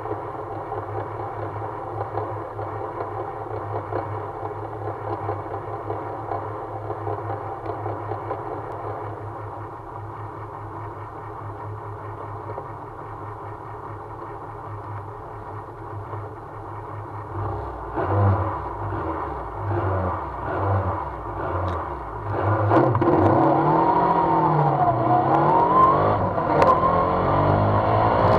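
Engine of an open-cockpit track car heard from the driver's seat, idling steadily while the car stands still. About 17 s in it starts moving off, and from about 22 s it revs up hard, the pitch rising, dipping at a gear change and rising again.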